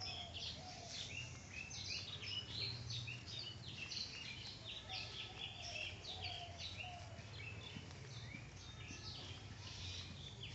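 Birds chirping and twittering in a busy, continuous chorus of short high notes, with a few lower calls now and then over a faint steady background rumble.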